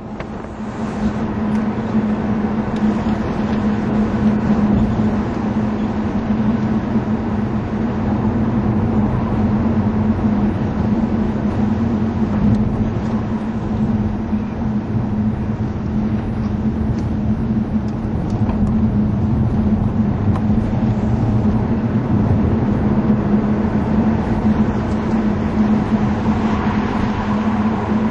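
Vauxhall Monaro's V8 engine running with a steady drone, heard from inside the moving car's cabin together with road noise.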